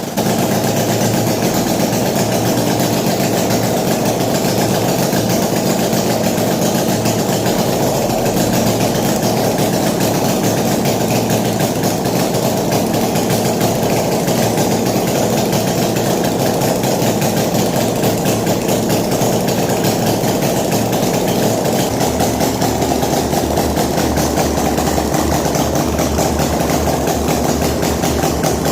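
Homemade V4 engine, built from scrap-yard engines, running steadily at idle.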